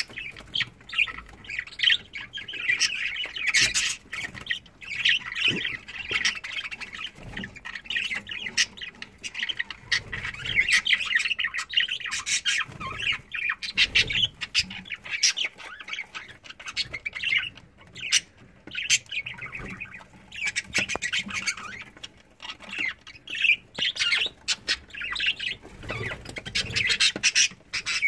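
Several budgerigars chattering and squawking almost without pause, a dense stream of short sharp calls with a few brief lulls.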